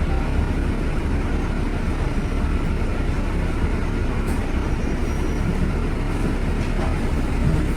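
Steady low rumble of motor traffic, with a faint click about four seconds in.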